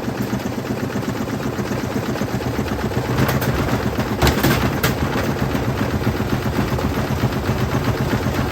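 LG washing machine running hard with a loud, rapid, continuous rattling and banging from its drum, with a few heavier knocks about three to five seconds in.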